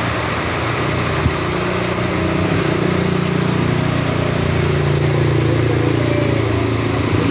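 Steady hiss of heavy rain with a motor vehicle's engine running close by; the engine's note drops about two-thirds of the way through. A single sharp tick a little over a second in.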